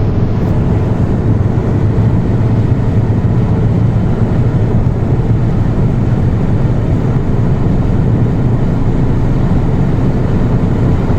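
A car running: a steady low rumble with an even rushing hiss over it, holding level without revving.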